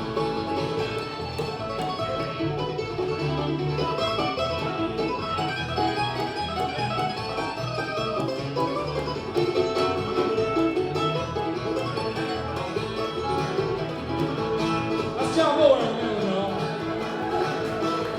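Bluegrass band playing live, plucked strings to the fore, with a long downward pitch slide about three quarters of the way through.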